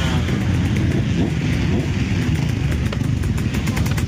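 Motocross bike engines running and revving, with a short rise in revs about a second in and a quick crackle of engine noise near the end.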